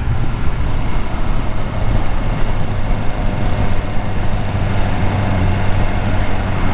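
BMW S1000R inline-four engine running steadily while riding, with wind rushing over the helmet microphone.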